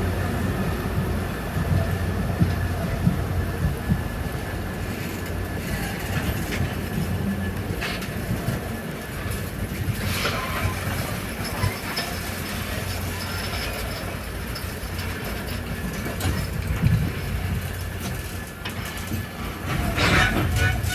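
Train rolling along the rails with a steady low rumble, broken by a few brief sharp squeals from the wheels about a third, halfway and near the end.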